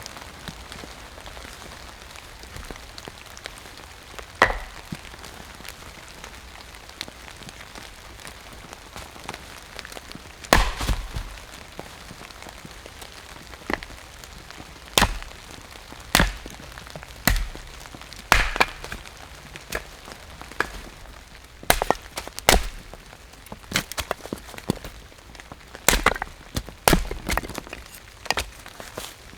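Firewood being chopped or split: one sharp woody blow about four seconds in, then a run of irregular blows about a second apart from about ten seconds in. Steady rain hisses underneath.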